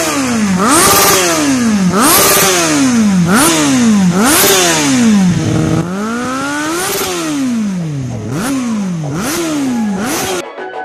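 Kawasaki Z800's inline-four through an aftermarket exhaust, blipped repeatedly while standing: about ten quick revs, roughly one a second, each rising and falling, with a sharp crack at the top of most revs. It cuts off just before the end.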